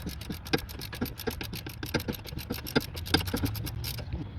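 Ratchet wrench clicking rapidly and evenly, about a dozen clicks a second, as a freshly loosened brake caliper bolt is backed out; the clicking stops about four seconds in.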